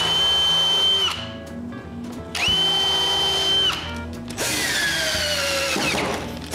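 Power drill driving wood screws: two short runs of steady motor whine, then a longer run in which the pitch slides down as the motor slows under the load of the screw.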